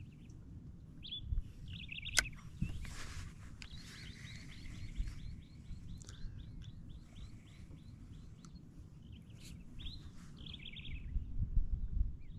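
Wild birds calling outdoors: short chirps, then a rapid run of repeated notes, then more chirps near the end, over a steady low rumble of wind and water. A single sharp click about two seconds in.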